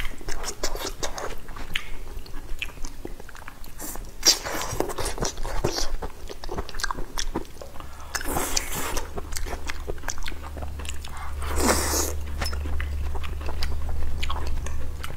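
Close-miked chewing and biting of braised pork knuckle: many small wet clicks and smacks from the mouth, with a few longer swishing sounds about four, eight and eleven seconds in.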